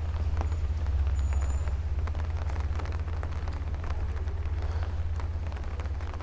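Rainy city street ambience: a steady deep rumble under an even hiss of rain, with scattered sharp ticks of drops.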